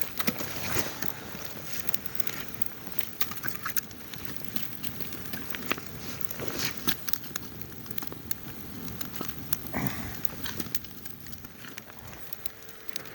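Wood campfire burning, with irregular sharp crackles and pops.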